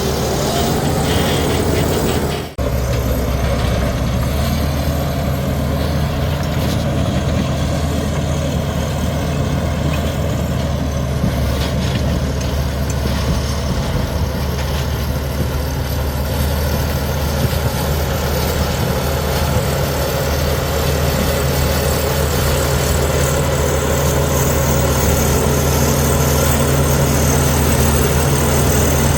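Komatsu D61EX bulldozer's heavy diesel engine running steadily, with a brief dropout about two and a half seconds in.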